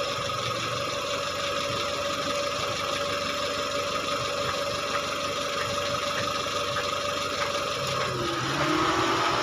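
Timor SOHC four-cylinder engine idling steadily. The sound grows a little louder near the end.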